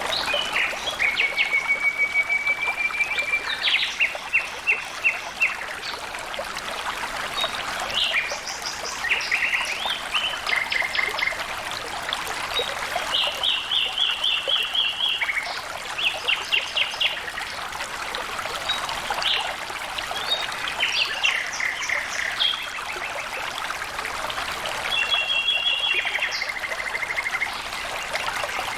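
Water trickling and flowing steadily, with birds calling again and again over it in short, fast trills of evenly repeated high notes.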